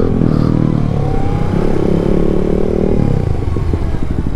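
Yamaha MT-07's parallel-twin motorcycle engine under way, revs climbing as it pulls, then easing off about three seconds in.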